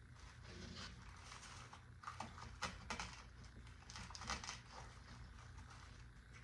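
Artificial greenery stems and plastic leaves rustling faintly as they are handled, with a cluster of light clicks and crinkles about two to four and a half seconds in, over a steady low hum.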